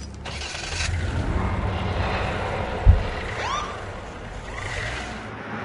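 Steady vehicle and traffic noise, with one sharp low thump about three seconds in and a brief high chirp just after.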